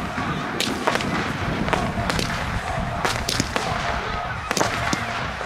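Aerial fireworks going off: an irregular string of sharp bangs, about two a second.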